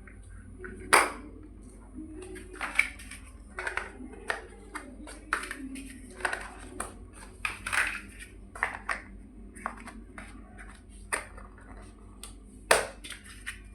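Plastic building bricks clicking and clattering as they are handled and pressed together: irregular small taps and clicks, with two sharper clacks about a second in and near the end.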